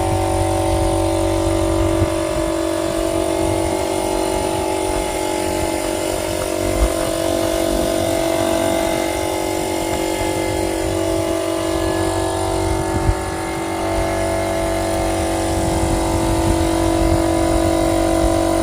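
A steady mechanical hum from a running motor, holding one pitch throughout, with a slight shift in pitch about two-thirds of the way in and a couple of faint knocks.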